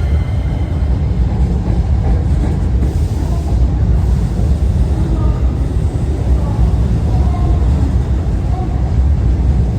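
Hankyu 9300 series electric train pulling out, a steady, loud, low rumble of wheels and motors.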